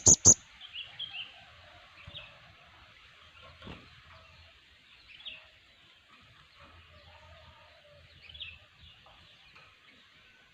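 Sogon (crimson sunbirds) calling: a fast run of loud, sharp high chips ends just after the start, followed by faint, scattered short high chirps.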